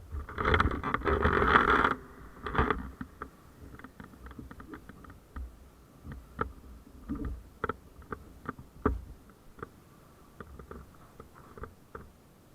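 A loud rustling scrape for about two seconds, then a series of irregular sharp clicks and taps close to the microphone.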